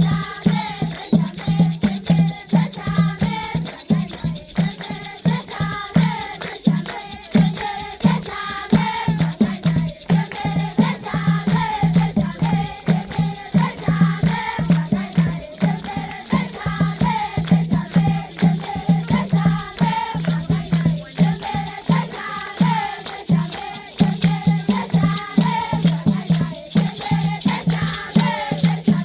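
A group of children singing a traditional Zimbabwean rain-dance song in chorus, with rattles shaken and a low beat pulsing steadily a few times a second.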